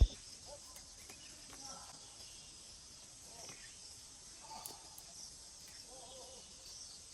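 Outdoor rural ambience: a steady high-pitched drone of insects such as crickets, with faint scattered chirps and small rustling sounds, and a sharp click at the very start.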